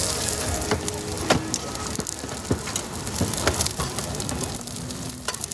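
Food sizzling and crackling on a hot street-stall griddle, a steady hiss broken by scattered sharp clicks and pops.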